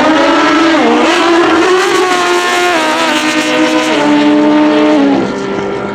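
Drag-racing motorcycle engine at full throttle making a pass down the strip. The engine note drops in steps at each of several gear changes, and it gets quieter about five seconds in.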